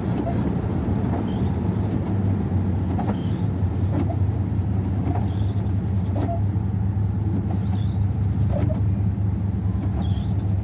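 1957 Ford Thunderbird's Y-block V8 running steadily on the road, heard from inside the car as a low, even drone. The engine runs on only two barrels of its four-barrel carburettor. A faint tick repeats about once a second.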